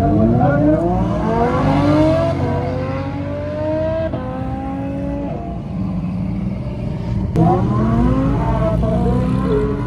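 Supercar engine accelerating hard, its pitch rising steeply for about two seconds, then holding and stepping down. It rises sharply again about seven seconds in, just after a brief sharp click.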